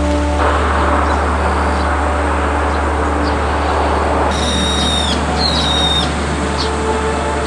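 Bird calls: two short calls with high, clear tones about four and a half and five and a half seconds in, over a steady low hum and a hiss that fades out about four seconds in.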